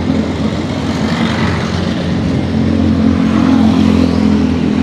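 Street traffic with motor engines running close by: a steady engine hum that grows a little louder about three seconds in.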